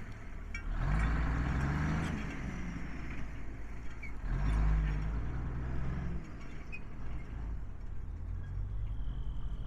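1985 Freightliner truck's diesel engine running, its pitch rising and falling, with louder surges about a second in and again about four and a half seconds in.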